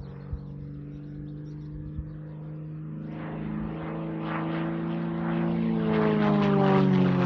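Propeller airplane flying low past, its engine droning louder and then dropping in pitch near the end as it goes by.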